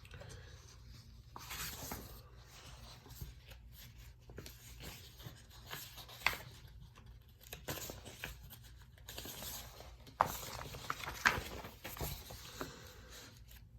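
A pen scratching on paper in irregular strokes, underlining a sentence in a textbook page, with a louder run of strokes and a few sharp ticks near the end.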